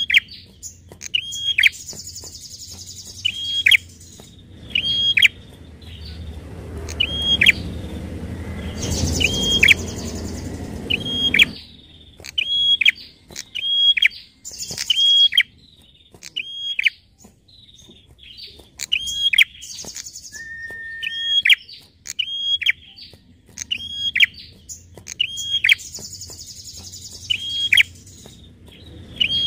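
Prinia (prenjak) calling over and over, a sharp falling chirp roughly every second with thinner high chatter above it. A low rumble runs under the calls for several seconds in the first half.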